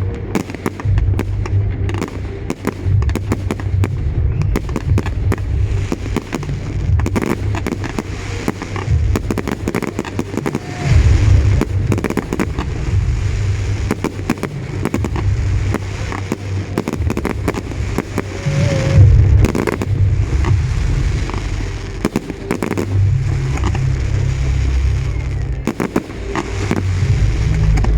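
Fireworks display: a continuous barrage of rapid crackles and bangs over deep booms, with the loudest booms about eleven seconds in and again about nineteen seconds in.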